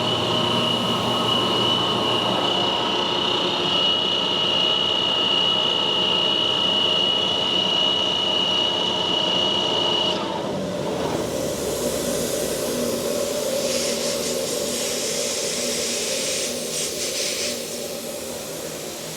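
Gardner Denver ESKAE 60 hp air-cooled rotary screw air compressor running steadily with a high whine. About halfway through the whine cuts off, the sound drops a little and a hiss of air takes over.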